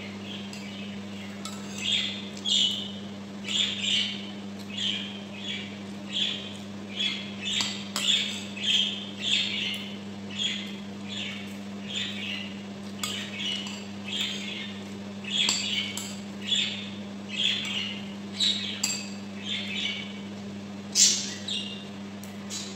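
A person chewing food close to the microphone, with wet smacking sounds about one to two a second. A spoon clinks once on a plate near the end.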